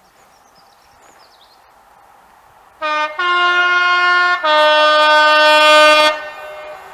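Two-tone train horn sounding about three seconds in: a short low note, a higher note, then a longer low note, stopping about a second before the end.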